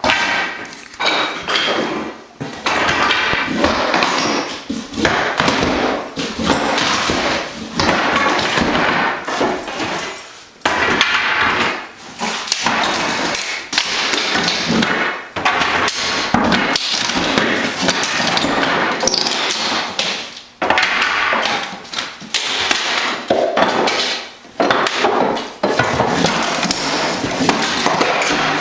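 Old hardwood floorboards being hammered and pried up: dense, loud clattering of repeated impacts and cracking wood, in stretches of a few seconds with brief pauses between.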